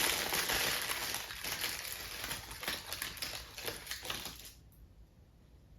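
Crinkling and rustling of plastic packaging with small clicks as action-figure accessories are handled and taken out; it dies away about four and a half seconds in.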